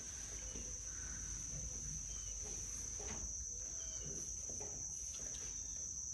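Steady, high-pitched insect chorus, an unbroken trill that holds one pitch throughout, over faint outdoor background noise.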